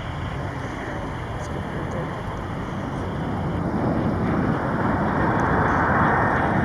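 Jet airliner engines at takeoff power, a broad rushing noise growing steadily louder as the departing plane comes closer.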